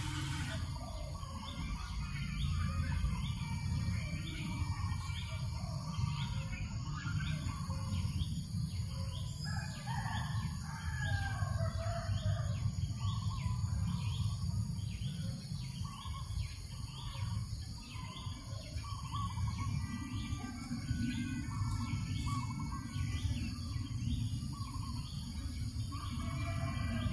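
Birds chirping and calling over a steady low rumble of breeze on the microphone, with a short high note repeating about twice a second.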